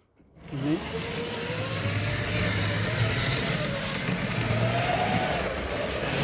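Tri-ang Railways model train pulling away on the track: its small electric motor whines over a rumble of wheels on rail. It starts about half a second in, and the whine rises and wavers in pitch as the train picks up speed.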